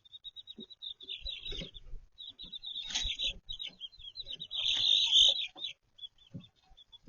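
Baby chicks peeping in quick strings of short, high notes, busiest and loudest about five seconds in, with a few lower sounds among them.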